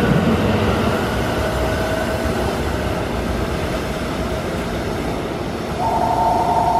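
Keikyu 600-series electric train pulling away from the platform, its running noise easing as it recedes down the line. Near the end a two-note steady electronic tone starts up.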